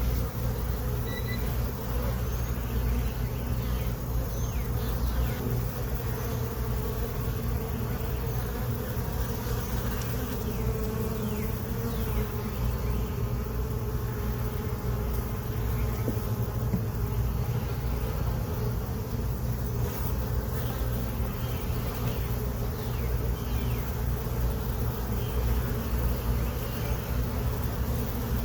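A colony of honey bees buzzing around an opened hive during an inspection, a steady, unbroken hum.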